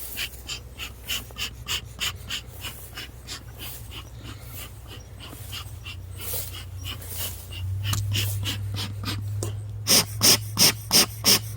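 Bee smoker bellows being pumped: a steady run of short airy puffs, about three a second, coming harder in the last couple of seconds.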